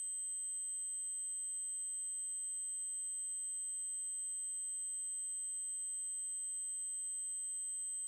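Continuous electronically generated 8192 Hz triangle-wave tone: a very high-pitched steady note, constant in pitch and level, with fainter steady overtones around it.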